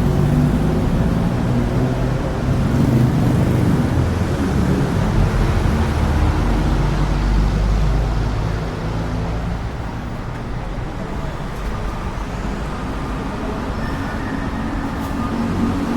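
A small motorbike engine, the Honda Chaly minibike's, runs steadily amid street traffic noise.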